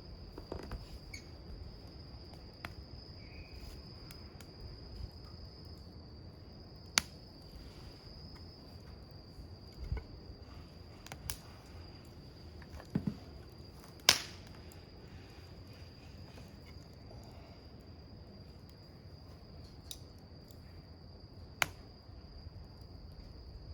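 Wood campfire crackling, with a few sharp pops of burning wood, the loudest about fourteen seconds in. An insect trills steadily at a high pitch behind it.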